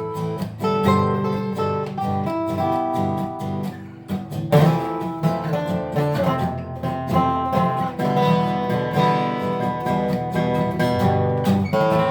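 Acoustic guitar strumming a song's instrumental opening in a steady rhythm, with a brief drop about four seconds in before the strumming comes back strongly.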